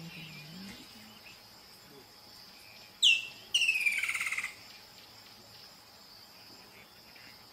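Bird calling: a quick sharp call sweeping downward about three seconds in, then a harsh, pulsing call about a second long that slowly falls in pitch, over a steady high insect drone.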